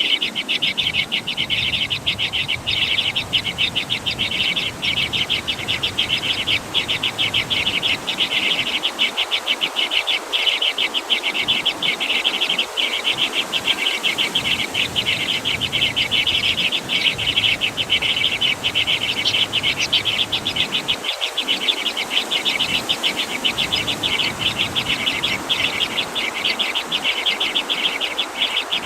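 A continuous insect chorus: a high, rapidly pulsing trill that keeps an even level throughout.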